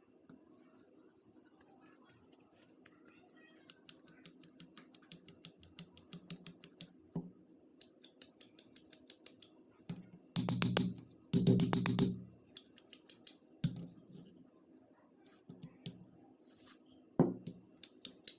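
Rusty hand pruners being worked by hand: a run of quick, even metallic clicks, about four a second. About halfway through come two louder, longer noisy bursts.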